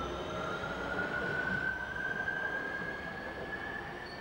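Regional Railways passenger train running away along the platform line, its rumble fading, with a steady whine rising slowly in pitch.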